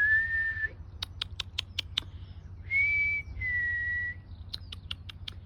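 A person whistling a two-note call, a higher note then a slightly lower one, twice: once at the start and again about three seconds in. Between and after the whistles come quick runs of sharp clicks or taps.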